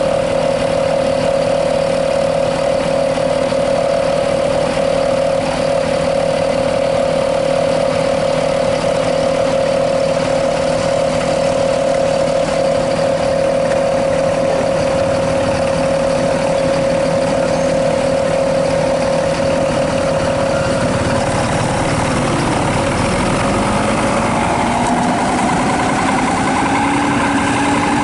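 Bus exhaust fitted with a 'srigala' (wolf) whistle, howling on one steady note. From about 21 seconds in, further tones come in and rise in pitch as the engine revs up.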